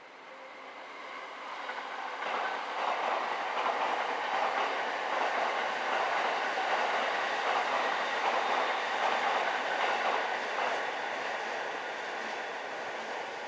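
Electric train running past on the rails. The rail noise builds over the first two to three seconds, holds steady, and eases a little near the end.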